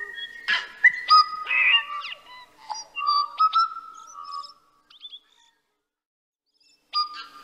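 A songbird singing a varied run of clear whistled notes, quick pitch slides and clicks, with a harsh squawk about half a second in; it pauses for about two seconds near the end, then starts again.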